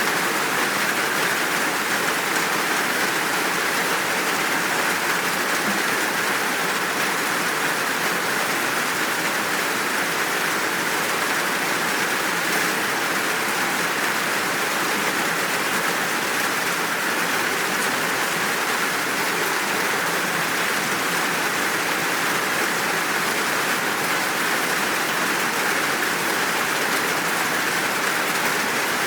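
Steady, full downpour of rain, an even hiss with no let-up.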